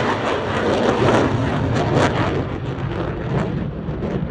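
Jet noise from the Red Arrows' BAE Hawk jets passing and slowly fading as the formation moves away, a broad rushing sound over a low rumble. Wind buffets the microphone now and then.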